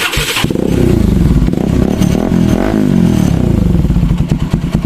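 Bajaj Pulsar NS200's single-cylinder engine starting through a newly fitted Akrapovic aftermarket exhaust, run without its dB killer. It catches suddenly, is revved up and down for a few seconds, then settles into a pulsing idle.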